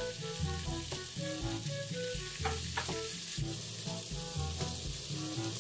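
Cubes of pork belly sizzling in oil with garlic and whole spices in a pot, stirred with a plastic spatula that scrapes sharply a couple of times about halfway through. Soft background music plays underneath.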